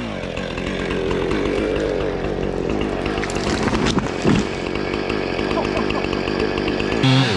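Gas chainsaw running at a steady engine pitch, as when cutting through a log, then revving up loudly and dropping back near the end.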